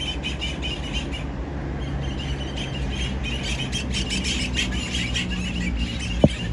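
Birds chattering in a fast run of high, closely repeated chirps and squeals, over a steady low rumble, with one short sharp knock near the end.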